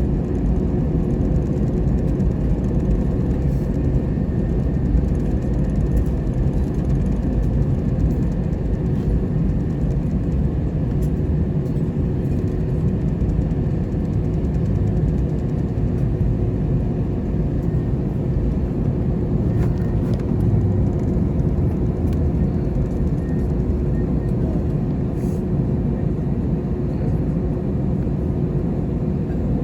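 Airbus A321-211 heard from inside the cabin, its CFM56 engines and airframe making a steady, loud low rumble with a faint constant hum above it.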